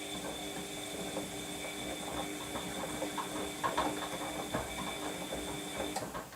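Washing machine drum motor turning the load during the wash cycle: a steady motor whine with irregular rattling, cutting off with a click near the end.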